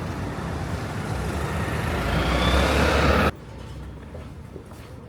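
A passing vehicle's rushing noise that builds louder for about three seconds, then cuts off suddenly, leaving a quieter background hum.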